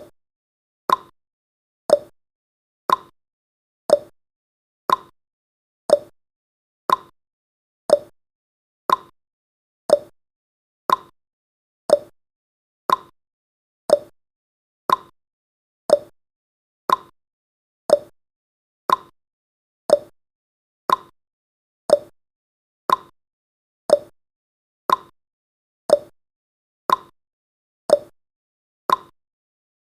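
Countdown timer's ticking sound effect: one short, sharp tick each second, evenly spaced, with silence between.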